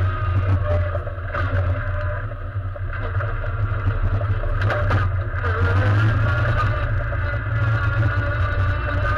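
Race car engine heard from inside the stripped, roll-caged cabin, running steadily as the car drives, with a deep rumble under it. A few short knocks and rattles come through, the loudest about five seconds in, as the car runs onto muddy gravel.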